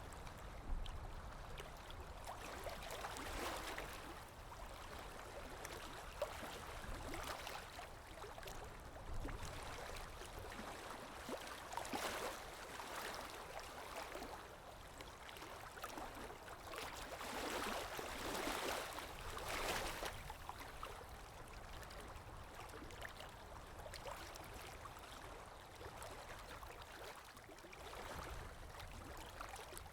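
Water lapping with wind, an ambient recording that swells and eases every few seconds with small splashes.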